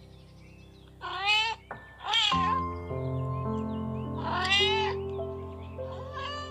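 Domestic cat meowing four times, each meow bending in pitch, over background music that swells in about two seconds in.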